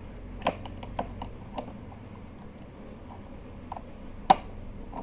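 Small parts of a hair trimmer being handled and fitted together: a series of light clicks and taps in the first second and a half, then a few more, with one sharper click a little past four seconds in.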